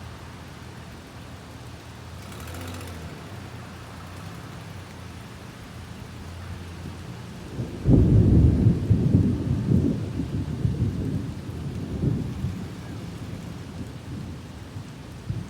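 Steady rain falling, then about halfway through a thunderclap breaks in with a sudden loud low rumble. The rumble rolls on in several swells for a few seconds and fades back under the rain.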